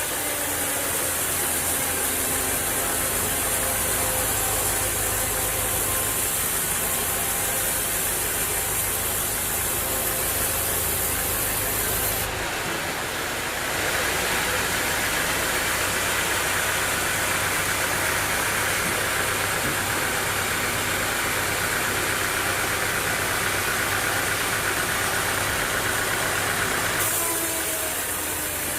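Sawmill machinery running steadily, an engine-like drone with hiss, its tone changing about twelve seconds in and again near the end.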